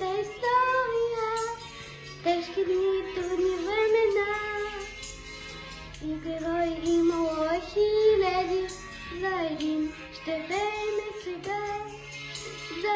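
A young girl singing a song solo over an instrumental backing track, her voice carrying the melody in several phrases above held low bass notes.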